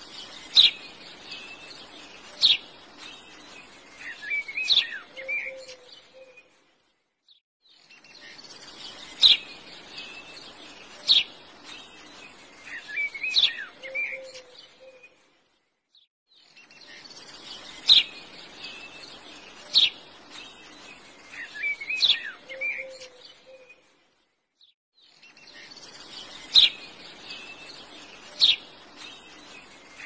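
Birdsong on a short loop: sharp high chirps, a warbling call and a lower call, the same few seconds repeating about every eight and a half seconds with a brief silence between repeats.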